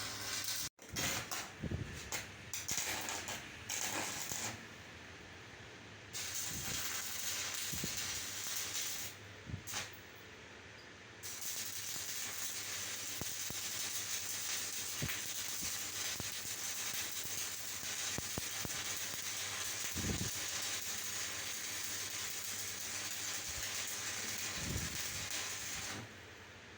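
Steady hissing from metalwork on a shaft, which stops briefly twice and starts again, with a few light knocks.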